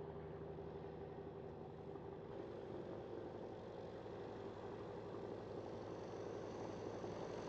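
Light-aircraft piston engine idling, a faint steady hum.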